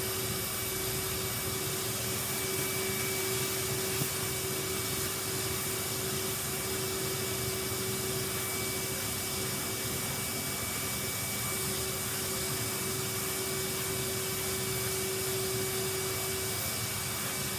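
Vacuum cleaner running steadily, an even rushing noise with a steady hum that drops out near the end.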